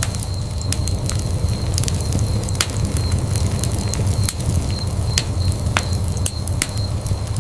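Wood fire in a fireplace crackling, with many irregular sharp pops and snaps over a steady low rumble of burning.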